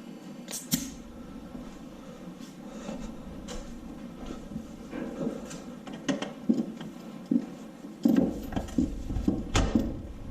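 Tools being handled on a workbench: scattered clinks and knocks, then a busier run of clattering and thuds about eight seconds in.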